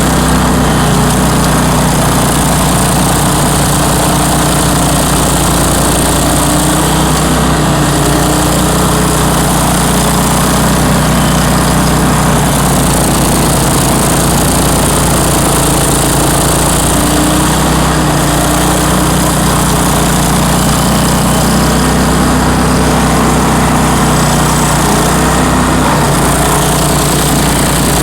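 Bandit ZT1844 stump grinder's engine running steadily and loudly.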